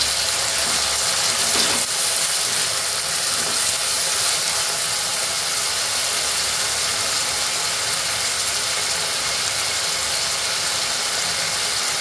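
Chopped tomatoes, onion and green chillies frying in coconut oil in a stainless-steel kadai, with a steady sizzle as the tomatoes cook down.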